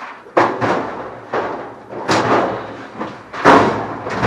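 Heavy clunks and bangs of metal dryer parts being worked into place, about five in a row, each ringing briefly.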